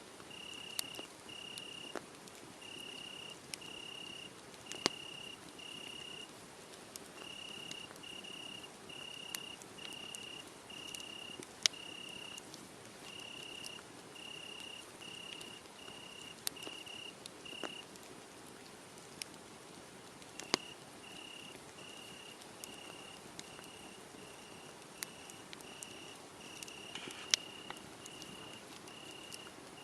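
Wood fire crackling, with scattered sharp pops, under a cricket chirping steadily at about two high chirps a second, with a short break just past the middle.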